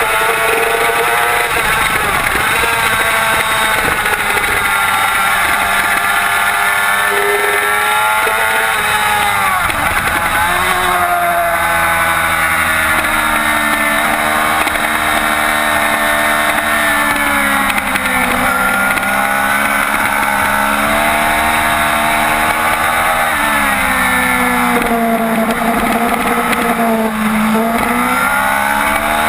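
2007 Yamaha YZF-R6's 600 cc inline-four engine at racing revs, its pitch sliding down under braking and downshifts (around 8–10 s, 18 s and 24–28 s in) and climbing again as it accelerates out of the corners, over a steady rush of noise.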